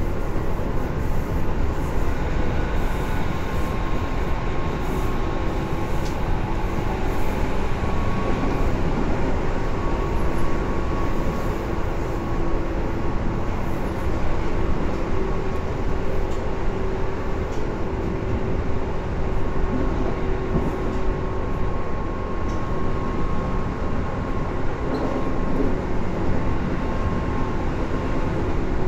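Tobu 10030 series electric train running at steady speed, heard from inside the car: a loud, steady rumble of wheels and under-floor equipment with a steady motor and gear hum and scattered light clicks from the track.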